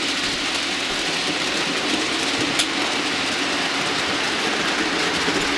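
Model trains running on the layout's track: a steady rolling rumble and hiss, with a single sharp click about two and a half seconds in.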